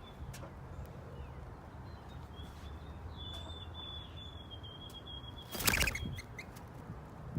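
Small birds chirping outdoors: a thin, high, held trill lasting a few seconds, then a short loud chirping or fluttering burst near the end, over a steady low hum.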